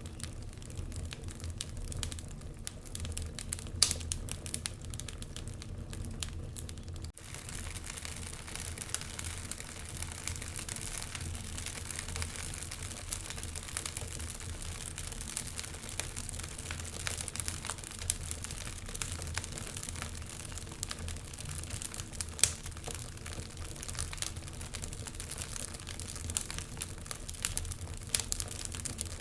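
Wood fire crackling in a fireplace: a steady hiss with a continual run of small snaps and pops and a few louder single pops. About seven seconds in the sound dips for an instant and the hiss comes back brighter.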